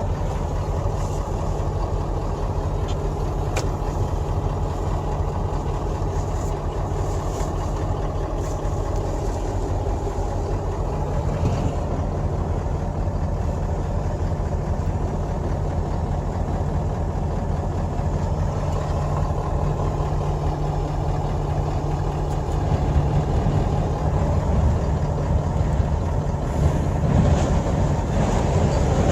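A vehicle's engine running steadily with a low hum under an even hiss, the whole sound growing a little louder and rougher about three-quarters of the way through.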